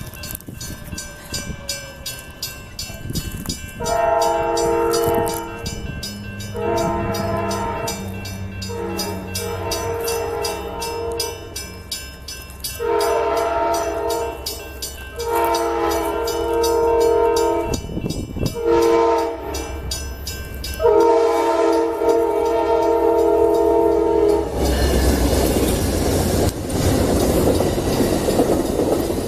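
Train air horn sounding a series of long blasts of a multi-note chord. Near the end the horn stops and the train rumbles loudly past.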